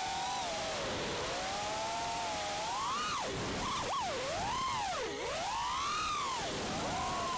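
FPV quadcopter's brushless motors and propellers whining, heard through the drone's onboard action camera; several close tones swoop up and down in pitch every second or so as the throttle is worked.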